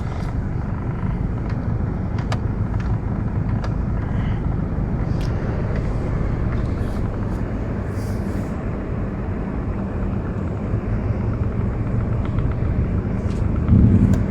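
Subaru's engine running steadily under a noisy rumble while it tows a refrigerator, with scattered small knocks and a brief louder surge near the end.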